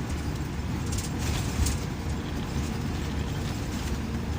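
Cabin of a Scania K340EB coach with Irizar PB bodywork under way: steady low engine and road rumble, with interior rattles and clicks, a cluster of them about a second in.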